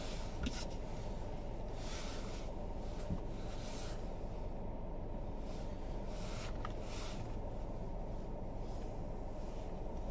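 Car driving on a snowy road: a steady low road rumble with short hissing swishes every second or two and a couple of faint knocks.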